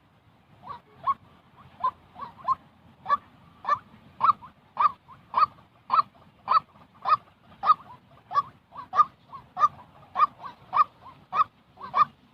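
White-breasted waterhen calling: a long series of short, repeated honking notes, about twenty in all. They come unevenly at first, then settle into a steady rhythm of somewhat less than two a second.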